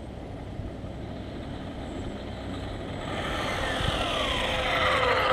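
High-speed pass of an 8S 1/5 scale Rampage V3 RC truck: steady road noise that grows louder, then a high electric whine that falls steadily in pitch and settles lower as the truck goes by and slows.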